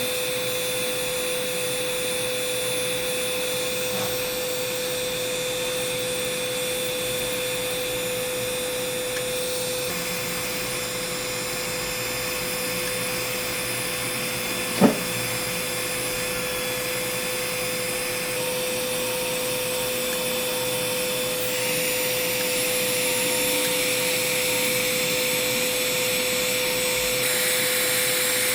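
Electric foot-care drill with dust suction running steadily with a constant whine, grinding down hard skin around a corn. One sharp click about halfway through.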